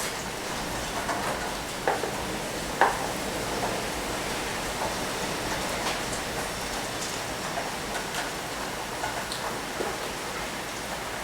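Heavy typhoon rain falling steadily, with scattered short clicks and knocks over it, two louder ones about two and three seconds in.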